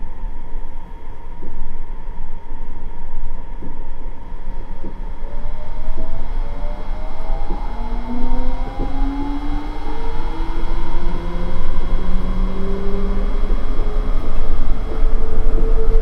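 Nippori-Toneri Liner 330-series rubber-tyred guideway train running, heard from inside the car: a steady low rumble with scattered knocks. From about five seconds in, a motor whine rises in pitch in steps as the train gathers speed.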